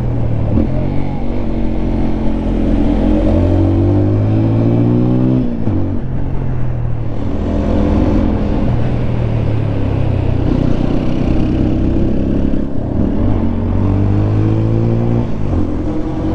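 Single-cylinder 200 cc sport motorcycle engine accelerating through the gears, its pitch climbing in each gear and dropping at each shift, with one clear shift about five and a half seconds in.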